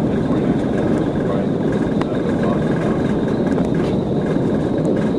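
Steady road and engine noise heard inside a police patrol car driving at highway speed during a pursuit.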